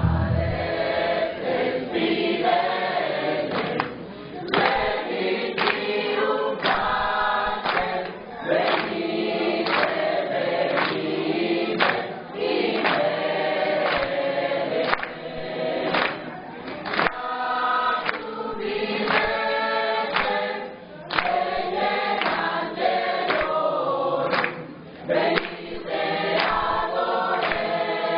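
Church choir singing a Christmas song, phrase after phrase with short breaths between.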